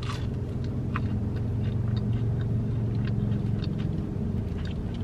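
Mouth sounds of biting into and chewing breaded fried chicken: scattered soft clicks and smacks, over a steady low hum in the car cabin, which is the loudest sound.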